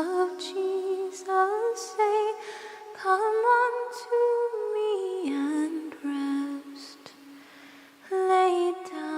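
A single unaccompanied voice sings a slow hymn melody. About halfway through it drops to a lower, softer passage, then comes back louder on a higher note near the end.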